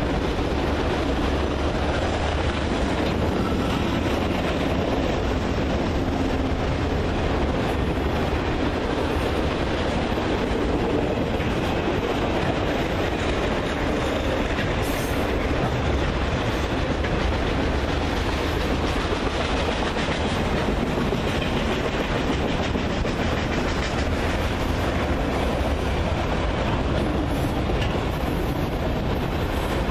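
Loaded autorack freight cars rolling steadily past: the continuous rumble of steel wheels on rail.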